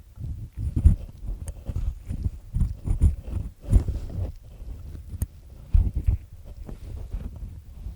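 Ear pick with three black discs scraping inside an ear canal, grinding earwax loose: an irregular run of low rubbing strokes and scratches, several a second, with small high clicks.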